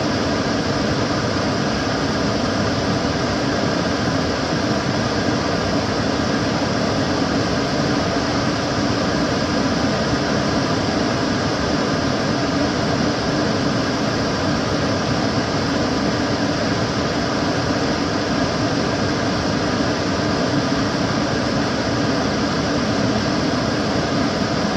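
Kitchen cooker hood extractor fan running steadily: an even, unchanging rush of air with a low hum.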